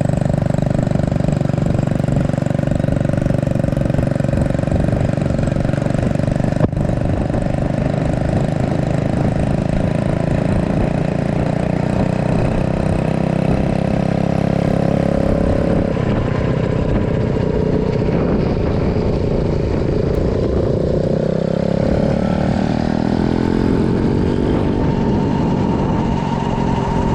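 Mini bike engine running steadily under way. Its pitch sags about two-thirds of the way through, then climbs again near the end as the throttle is opened.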